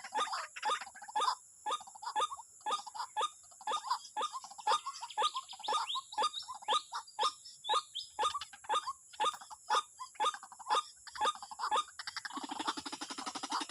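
White-breasted waterhen (wak-wak bird) calling: a fast run of short, harsh notes, about two or three a second. Near the end the calls give way to a denser, continuous chatter.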